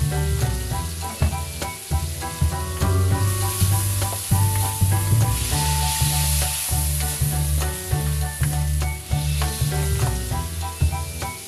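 Pork pieces sizzling in oil in an aluminium wok while a spatula stirs and turns them. The sizzle grows louder in the middle as the meat is moved. Background music with a steady bass line plays throughout.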